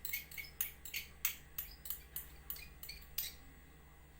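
A utensil stirring a liquid mixture of water, lemon juice, sugar and flavouring, clinking against the side of its dish about three times a second; the clinking stops a little after three seconds in.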